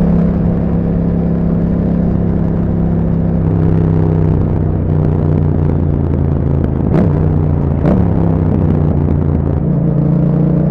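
2021 Yamaha MT-07's 689 cc parallel-twin engine running through an Akrapovic exhaust at a steady riding speed, picking up revs slightly near the end. Two short sharp cracks come about seven and eight seconds in.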